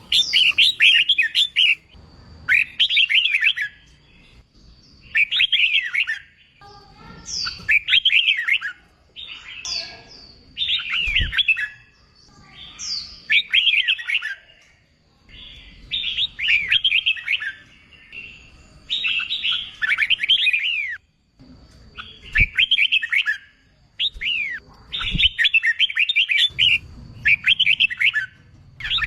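Red-whiskered bulbul singing: loud, quick warbling phrases of whistled notes, each about a second long, repeated every two seconds or so with short pauses between.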